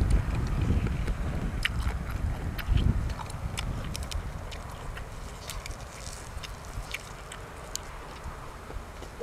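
Close-miked eating sounds: chewing with scattered wet mouth clicks and smacks. A low rumble under them fades after about three seconds.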